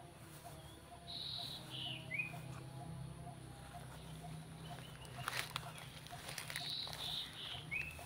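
A bird singing a short phrase twice: a high held note that drops in steps. A few sharp clicks sound about five seconds in.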